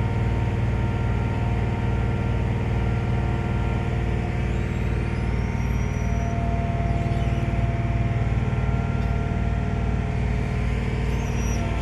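The ferry's engine running steadily, a constant hum with several steady tones over a low beat that pulses regularly, about three times a second.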